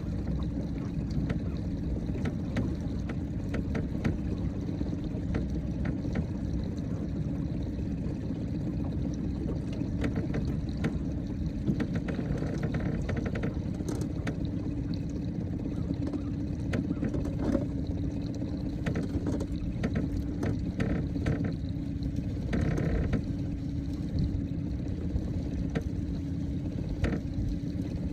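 Boat motor running steadily at trolling speed, with water splashing and lapping, and a few short clicks and noises over the top.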